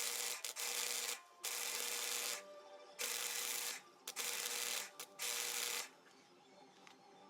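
Wire-feed welder laying short welds: about five bursts of crackling arc, each under a second long with brief pauses between them, and a steady hum from the welder under each burst. The welding stops about six seconds in.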